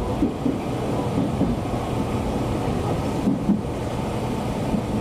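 Nankai electric train running along the track, a steady rumble of wheels and running gear heard from inside the front car.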